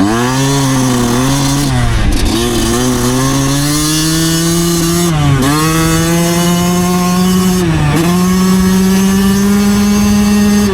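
Yamaha YZ125 single-cylinder two-stroke dirt bike engine running hard while riding. The revs dip sharply and climb back several times, about a second and a half in, at about five seconds and near eight seconds, and rise slowly in between.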